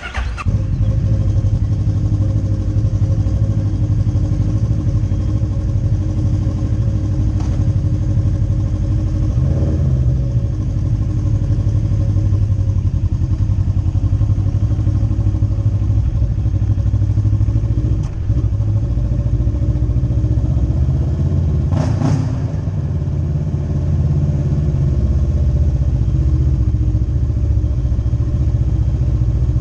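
Motorcycle engine running steadily at a fairly even pitch. It comes in abruptly at the start, with a brief burst of noise about two-thirds of the way through.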